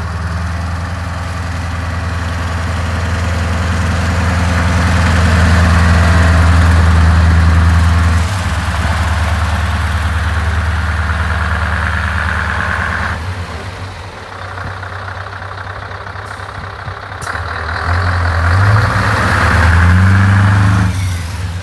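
Scania 164G truck's 580 hp V8 diesel engine running, its level swelling and falling; near the end the engine note climbs in pitch as it is revved.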